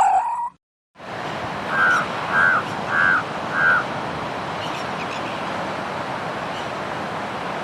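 An animal gives four short, evenly spaced calls, about two seconds in, over a steady rushing noise like wind or surf.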